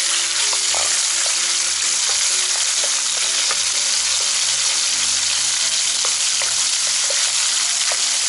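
Diced raw chicken and sliced garlic sizzling steadily and loudly in hot oil in a nonstick frying pan, just after the chicken went in. A wooden spatula stirring it gives faint scrapes and taps now and then.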